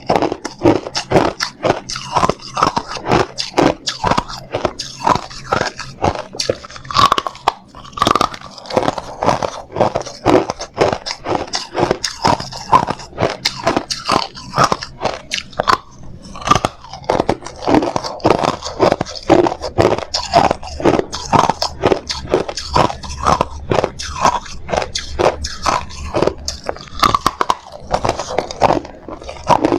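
Hard ice being bitten and chewed close to the microphone: a continuous run of sharp crunches, roughly two to three a second.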